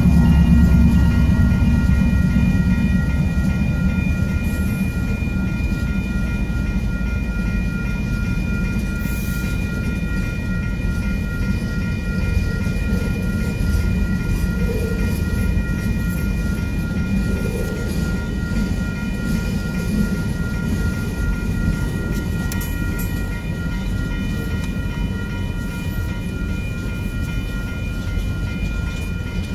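Diesel freight train passing close by. The locomotives' engines rumble loudest over the first couple of seconds as the lead units go by, then the steady rolling rumble and rattle of the freight cars over the rails carries on. A steady high-pitched ringing tone sounds throughout.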